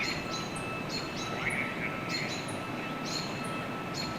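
Small birds chirping, short high notes repeating about two a second, over steady outdoor background noise with a faint steady whine.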